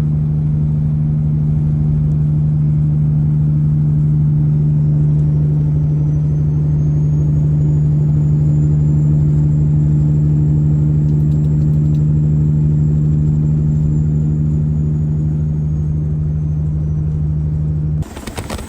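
Semi-truck diesel engine running with a steady, even drone at a constant pitch, stopping abruptly near the end.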